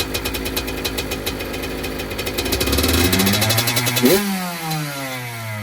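2006 Honda CR85's two-stroke single-cylinder engine running cold with its choke held on. It is revved up from about two and a half seconds in, peaks just after four seconds, then the revs fall away.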